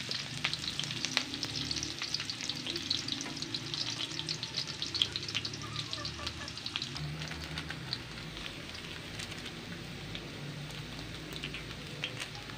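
Garlic, onion and ginger sizzling and crackling in hot oil in a steel wok as they are sautéed, with a wooden spatula stirring them at first. The crackling is dense for about the first seven seconds, then thins to a quieter, sparser sizzle.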